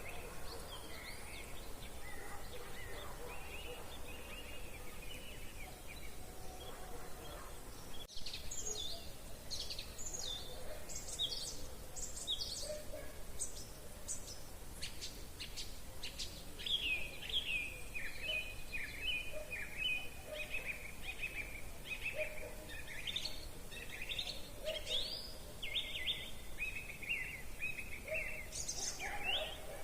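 Wild songbirds singing in spring woodland. About eight seconds in, a nearer bird takes over with a quick string of high, sharp notes, then a long run of repeated chirping phrases over softer song from others.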